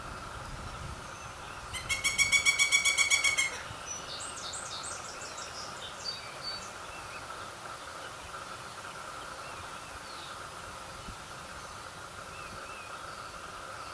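Pileated woodpecker chick calling: a loud, rapid pulsed rattle lasting about a second and a half, starting about two seconds in, followed by a run of fainter, higher notes.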